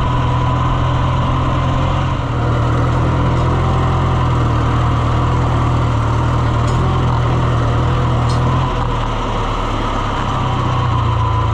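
Farm vehicle engine running steadily with a deep, even drone. A little under three quarters of the way through, its note drops slightly as the engine slows.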